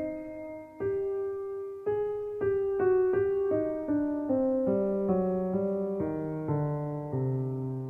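Background piano music: a melody of single struck notes stepping gradually downward in pitch.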